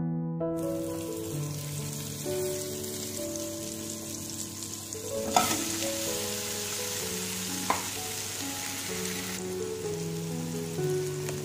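Food sizzling as it fries in hot oil in a pan. The sizzle starts about half a second in and keeps going steadily, with a couple of sharp utensil taps against the pan around the middle. Soft background piano music plays throughout.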